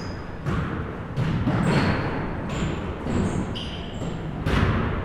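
Basketballs bouncing on a gym floor, about five dull thuds with the loudest near the end, among many short high sneaker squeaks, in an echoing hall.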